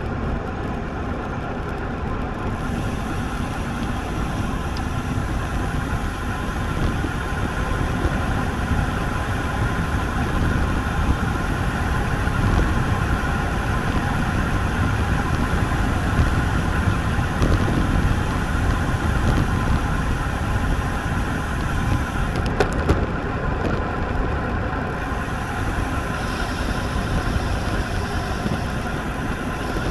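Wind buffeting the microphone of a camera on a moving road bike, a steady low rumble mixed with road noise that swells a little midway.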